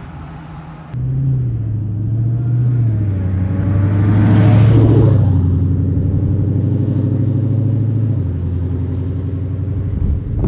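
2016 Dodge Challenger SRT Hellcat's supercharged 6.2-litre Hemi V8 driving by: the engine and exhaust note cuts in abruptly about a second in, swells to its loudest as the car passes around four to five seconds in, then settles into a steadier drone that drops a little near the end.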